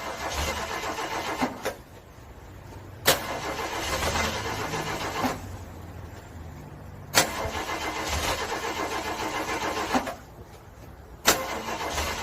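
A car engine being cranked again and again in severe cold without catching. There are four cranking attempts, each opening with a sharp click as the starter engages, then about two seconds of rhythmic cranking, with short pauses between.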